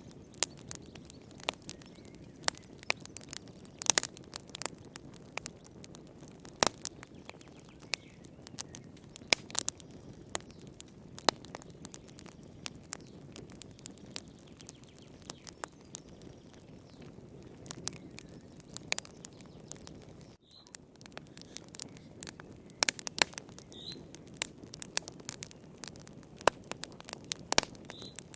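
Wood fire burning in a fireplace: irregular sharp crackles and pops over a steady low rush of flame. The sound drops out briefly about twenty seconds in.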